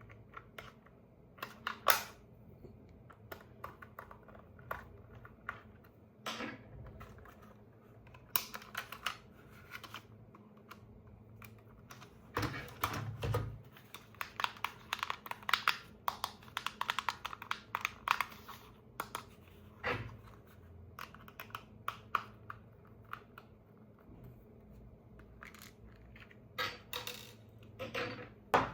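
Irregular clicks, taps and short rustles from hands handling small plastic toy parts and packaging, with a denser run of clicking about twelve to nineteen seconds in.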